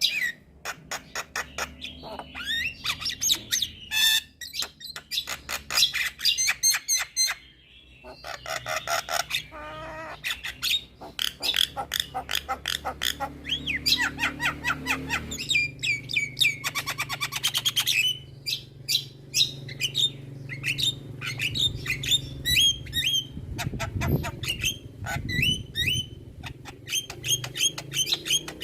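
Javan myna (jalak kebo) in full song: a fast, varied string of harsh clicks, chatters, short rising and falling whistles and trills, packed with mimicked phrases, pausing briefly about a third of the way in. A faint steady low hum runs underneath.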